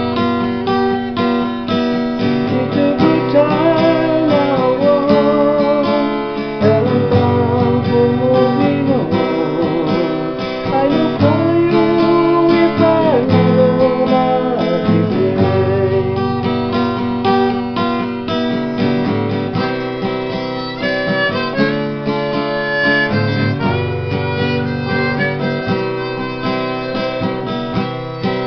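Acoustic guitar strumming chords under a harmonica playing the melody: an instrumental break between sung verses of a folk song.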